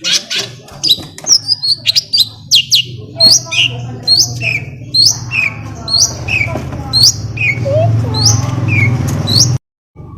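Long-tailed shrike (cendet) calling: a quick run of sharp, down-slurred chirps, about two a second, over a low steady hum. The sound cuts out briefly near the end.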